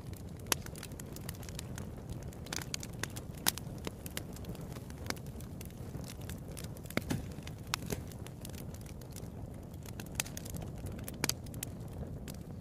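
Irregular crackles and sharp pops, a dozen or so at uneven intervals, over a steady low rumble.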